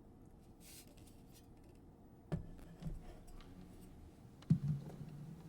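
A few sharp clicks and knocks over a faint low hum in a small room. The loudest click comes about four and a half seconds in, and each knock leaves a short low ringing.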